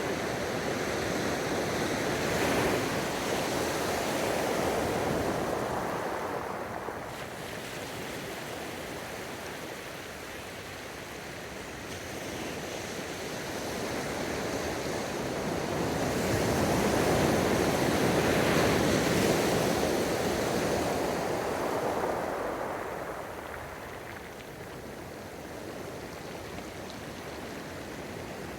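Gentle ocean waves breaking and washing up the shore in slow surges, swelling louder twice and easing off between.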